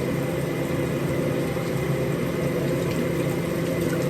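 A steady mechanical hum, even in level and pitch throughout.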